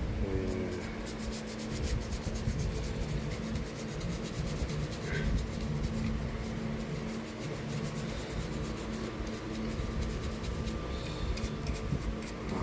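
Old paintbrush scrubbing Rub 'n Buff metallic wax paste onto a plastic 3D-printed model: rapid, repeated brush strokes against the print's surface.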